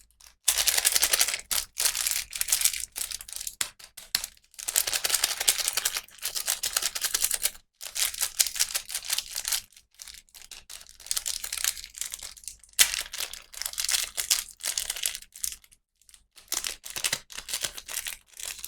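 Plastic toy packaging being crinkled and torn open by hand, in crackly bursts of a second or two with short pauses between.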